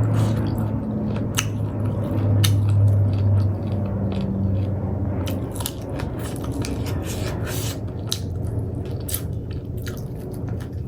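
Close-up eating sounds: chewing and biting with irregular wet clicks and smacks from the mouth, over a low hum.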